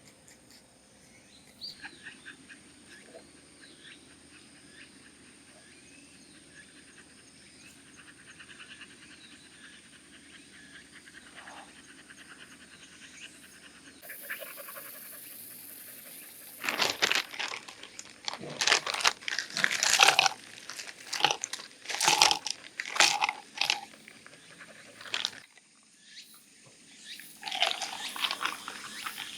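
Terrier barking, a quick run of loud, sharp barks in the second half, with a shorter burst near the end.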